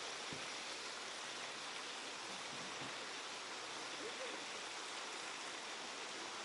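Steady, even rushing noise of water, unbroken throughout, with a faint short rising-and-falling tone about four seconds in.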